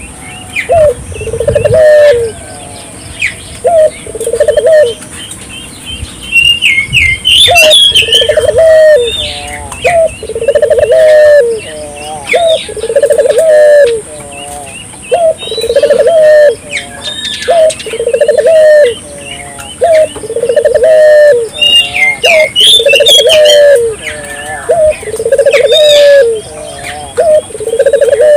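Puter doves (domestic ring-necked doves) calling vigorously: a low, quavering coo repeated about every two seconds. Higher chirps and whistles from small birds sound between the coos, over a steady high hiss.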